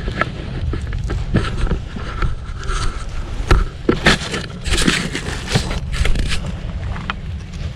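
Footsteps through dry ground cover, an uneven run of crackles and scrapes, with wind rumbling on the microphone.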